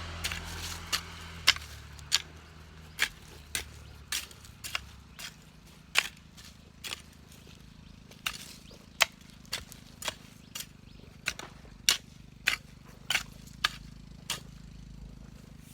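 A series of sharp clicks or snaps at an uneven pace, roughly one to two a second, over a faint low hum.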